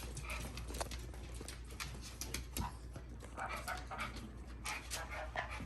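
A pet dog moving about, its claws clicking irregularly on a hard floor, with a few short faint sounds in the second half.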